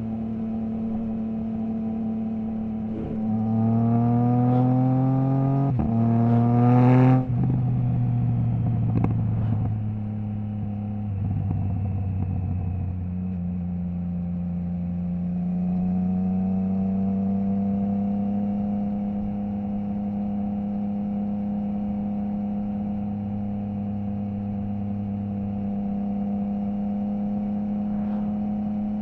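Triumph Trident 660's inline three-cylinder engine through a Zard stainless full exhaust with the baffle removed, ridden under load: the note climbs hard a few seconds in, breaks briefly for a quickshifted upshift and climbs again, then drops sharply off the throttle with a few crackles. It then settles into a steady cruise, its pitch rising slowly.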